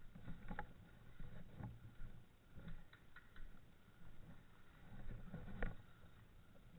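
Faint irregular rustling and handling noise with a few soft knocks, over a low rumble.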